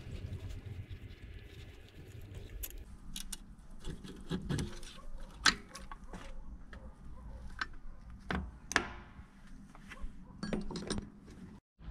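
Metal tools and engine parts clinking and knocking irregularly as a motorcycle engine is taken apart, over a low steady hum. The sound drops out briefly just before the end.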